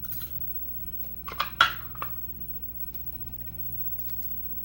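Small metal parts of a pin-tumbler lock clicking and clinking as the lock is taken apart: a few light clicks, then a quick cluster of sharper clicks about a second and a half in, the loudest of them, and one more shortly after.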